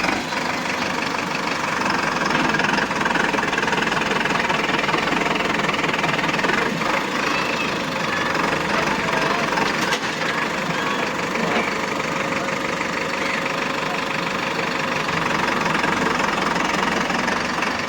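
Tractor diesel engine running steadily with a knocking clatter.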